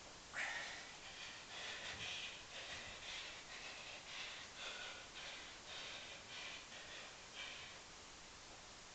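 A man breathing hard from exertion during a long set of one-leg pistol squats: a quick, irregular run of loud, airy breaths that dies down near the end.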